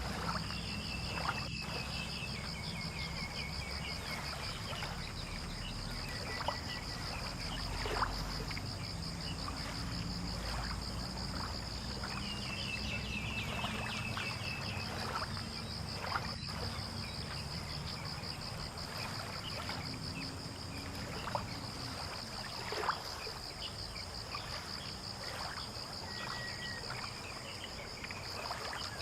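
Fishing-port ambience at dawn: a steady high insect trill throughout over a low rumble, with a few short bird calls and scattered small knocks.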